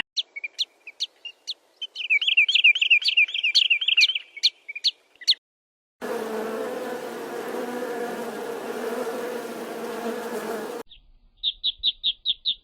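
Small birds chirping in quick high trills for about five seconds, then a steady buzz for about five seconds, and a fast run of about seven chirps near the end. Each part cuts off suddenly.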